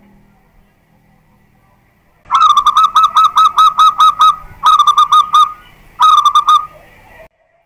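Zebra dove (perkutut) singing: three phrases of quick, evenly spaced ringing coos, the first about nine notes long and the next two shorter. The song starts about two seconds in and cuts off suddenly near the end.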